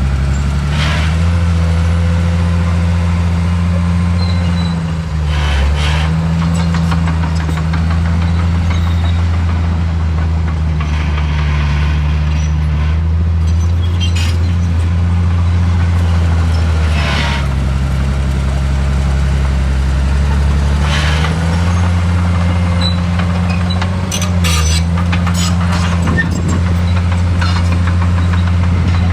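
Heavy diesel engine of earthmoving machinery running steadily under work, its note dipping briefly a few times. Sharp clanks or knocks sound now and then over it.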